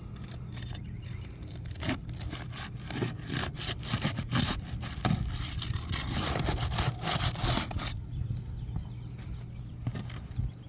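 Repeated scraping and rubbing with many clicks and knocks, heaviest in the middle, over a steady low hum.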